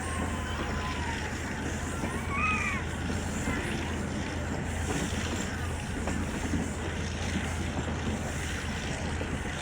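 Steady rumble and rushing noise of a moving passenger train, with a low hum underneath.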